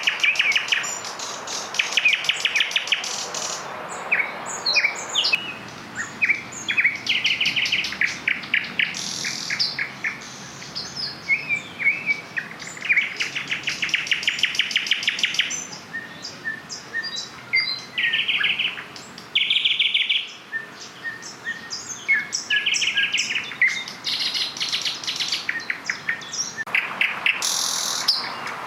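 Nightingales singing at once, their songs overlapping. The phrases are rapid trills of repeated notes, short whistles and clicks, sung one after another with almost no pause.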